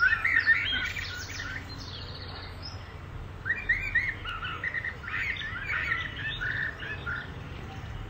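Small birds chirping and calling, many quick overlapping chirps in two spells: a busy burst at the start and another from about three and a half seconds to about seven seconds in, over a faint low hum.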